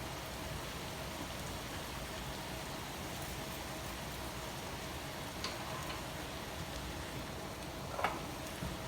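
Food frying softly in a pan, a steady even sizzle, with a couple of light taps about five and eight seconds in.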